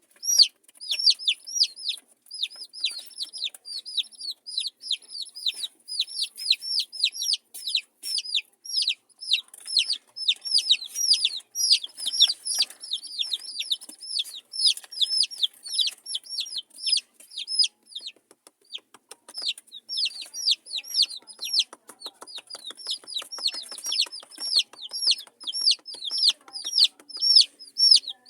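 Many baby chicks peeping at once: a dense, continuous chorus of short, high, downward-sliding peeps.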